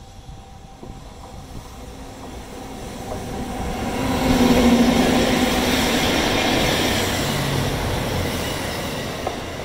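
Train headed by EF64 and EF81 electric locomotives, hauling E26-series passenger coaches, approaching and passing close by. The running noise builds over about four seconds, then stays loud with a steady hum over the rumble.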